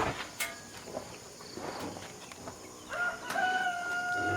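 A rooster crowing once: one long held call that starts about three seconds in.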